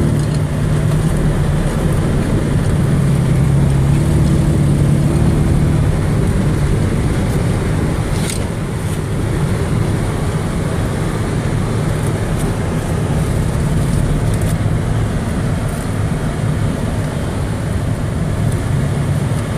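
Ford F-150 pickup driven through snow, its engine running steadily for about the first six seconds before giving way to an even rumble for the rest, with a few faint ticks.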